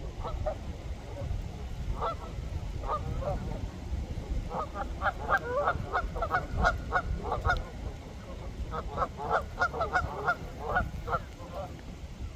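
A flock of waterfowl on a pond calling in quick runs of short, honking calls, several a second, with scattered single calls in between. A steady low rumble lies underneath.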